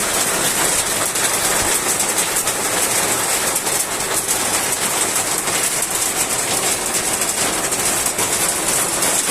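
Heavy rain pouring down, a dense, steady patter of countless drops.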